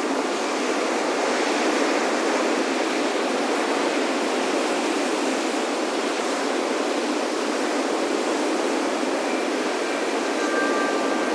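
Steady rush of ocean surf washing on a beach. A few wind chime notes ring out near the end.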